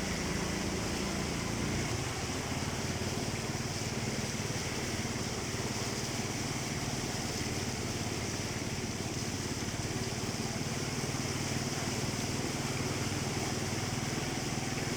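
Steady rainfall with a constant low mechanical hum under it.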